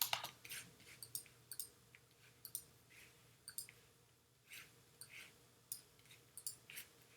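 Faint computer mouse clicks, a couple of dozen short sharp clicks at irregular intervals, over a low steady hum.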